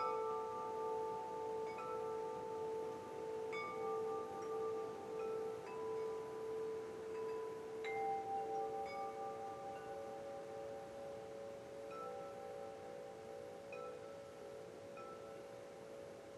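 Wind chimes ringing, with new notes struck every second or two and long, overlapping tones. The sound slowly grows quieter toward the end.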